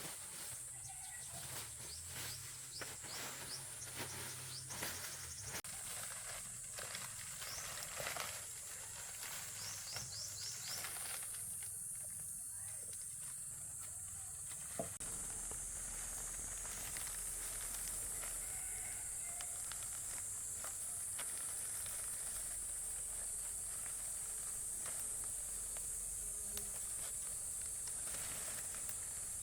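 Steady high-pitched hiss of insects, which grows a little louder about eleven seconds in and again about fifteen seconds in. Scattered rustling and light knocks run through the first ten seconds or so, and there is one sharp click about fifteen seconds in.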